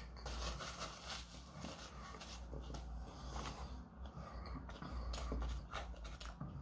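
Close-up chewing with the mouth closed and heavy breathing through the nose, with small clicks of a plastic utensil in a cardboard food box.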